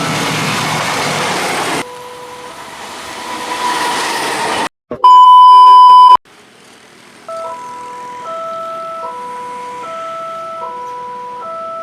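A train passes a level crossing, its loud running noise over the crossing's repeating warning tones, until the sound cuts off about two seconds in. Quieter noise swells, then a loud steady beep lasts about a second. From past the middle, the crossing's electronic warning chime plays a repeating pattern of short melodic notes.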